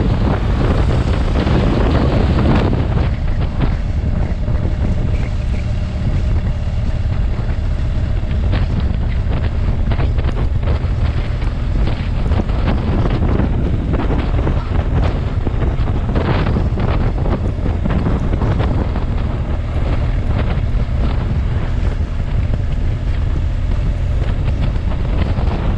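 Wind rushing over the microphone of a moving motorcycle, with the engine running steadily beneath it.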